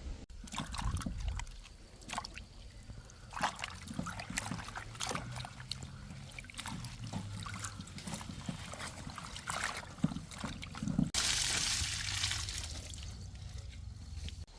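Water sloshing and trickling with scattered clicks and knocks, then a sudden loud hissing rush about eleven seconds in that slowly fades.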